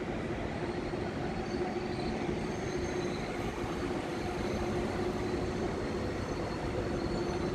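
Polregio electric multiple unit rolling past along the platform, a steady rumble of its wheels on the rails with a steady hum running through it.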